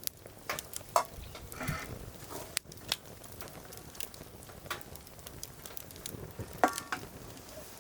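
Wood fire crackling in a fire grill, with irregular sharp pops over a steady low hiss, and two brief higher ringing squeaks about a second and a half in and near the end.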